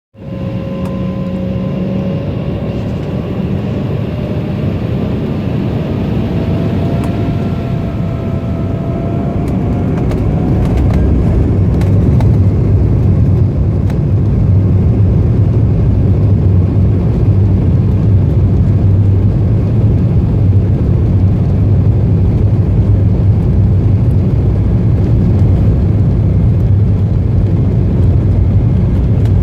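Embraer ERJ-190 jet engines heard from inside the cabin. They spool up with a whine that rises in pitch over the first ten seconds, then settle into a louder, steady low rumble at take-off power.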